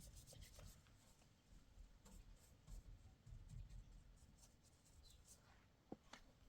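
Faint scratching and rubbing with scattered light clicks, one sharper click near the end.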